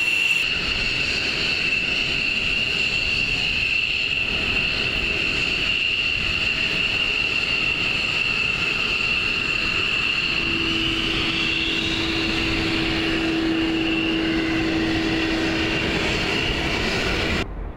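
Fighter jet engine running with a steady high whine. A lower steady hum joins about ten seconds in, and the sound cuts off abruptly near the end.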